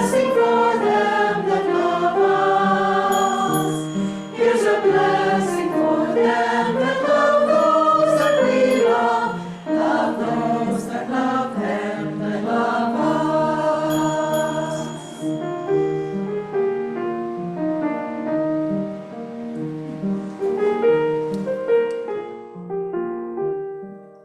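Small choir singing a hymn in harmony with piano accompaniment. The voices drop away about two-thirds of the way through, leaving the piano playing on more softly.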